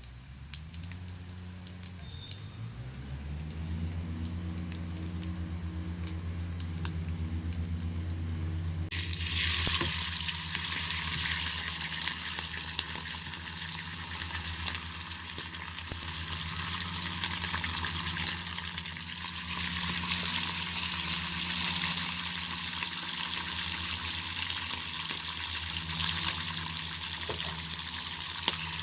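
Bacon frying in a pan over a fire. About a third of the way in a sudden loud sizzle starts, as if the bacon had just gone into the hot pan, and it keeps on hissing. Before that there are only faint crackles under a low steady hum.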